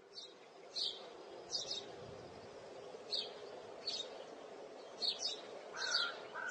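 Small birds chirping: short high chirps repeated every second or so, coming closer together near the end, over a steady low background hum.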